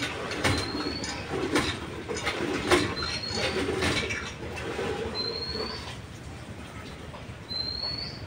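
A bird calling: a short high whistle that rises in pitch, repeated four times at intervals of two to three seconds, over a few clicks and knocks in the first half.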